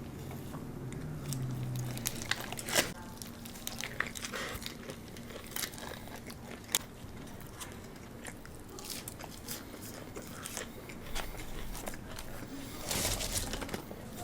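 Close-miked ASMR eating sounds: biting, crunching and chewing, with scattered sharp crunches and a louder crunchy stretch near the end.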